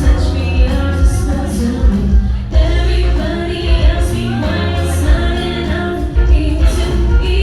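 Live band music with singing, heard from behind the stage: a heavy, pulsing bass and a steady drum beat under the vocals.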